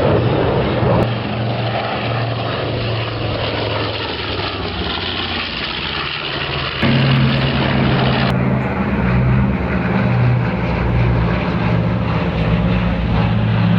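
Propeller airplane engine droning steadily. About seven seconds in the sound cuts abruptly to a louder, deeper drone.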